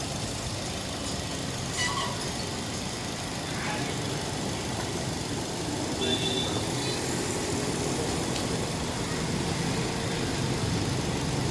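Maruti Suzuki K-series petrol engine idling steadily.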